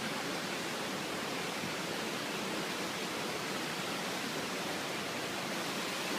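Steady rush of fast-flowing river water, an even hiss that holds at one level throughout.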